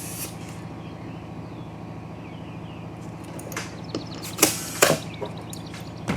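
Short hisses of compressed air from an air chuck or tire gauge on a lawn mower tire's inner tube, two strong ones near the end about a third of a second apart, with a few light clicks before them. A steady low hum runs underneath.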